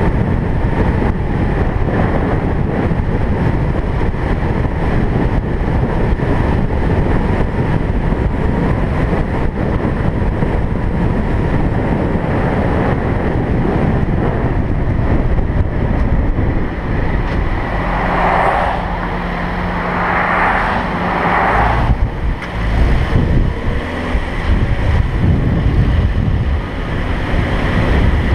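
Steady road and wind noise from a moving car, a constant low rumble. About two thirds of the way through, three short hissing swells rise over it, one after another.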